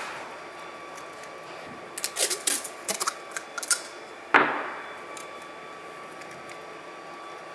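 Light clicks in quick succession from small metal parts or tools being handled, then a single sharp knock with a short ringing tail about halfway through, over a faint steady hum.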